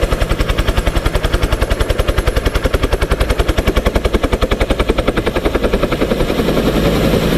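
Helicopter rotor blades chopping rapidly and evenly over the engine's hum. About six seconds in the chop fades and a steadier engine hum takes over.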